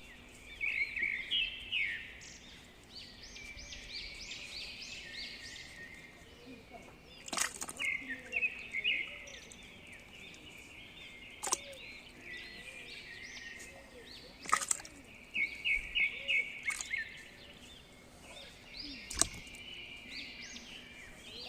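Small birds chirping and trilling in quick runs of high notes, with a few sharp clicks among them and a faint steady hum underneath.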